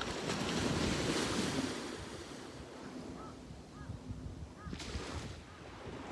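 Sea waves on a beach: a wave breaks and hisses up the shore right at the start, loudest about a second in, then slowly washes out. A smaller wash comes just before five seconds. Wind on the microphone rumbles underneath.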